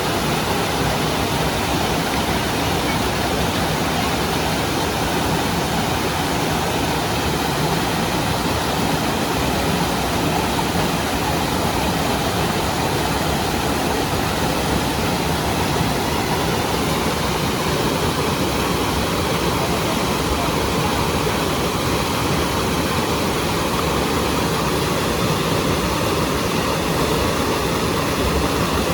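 Rushing water: a steady, loud, unbroken rush of fast-flowing mountain water.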